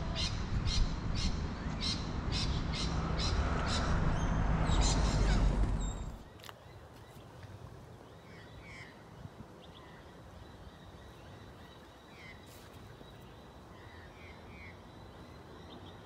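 A rapid run of about a dozen harsh bird calls, two or three a second, over a low rumble; about six seconds in it cuts to quiet outdoor background with faint, scattered bird chirps.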